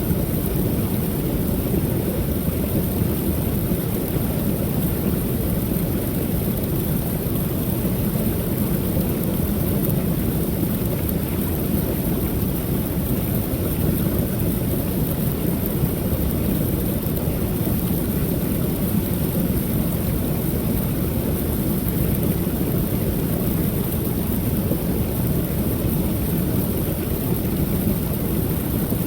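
Creek waterfall pouring steadily: an even, deep rush of falling water with no breaks or changes.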